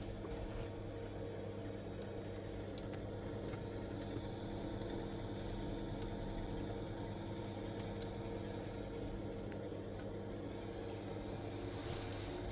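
Biasi gas combi boiler running on central heating: a steady low hum, with a few faint clicks.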